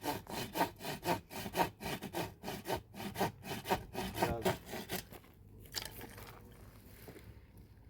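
Wood being cut with a hand saw: quick, even back-and-forth strokes, about four a second, for some five seconds, then a few weaker strokes before the sawing stops.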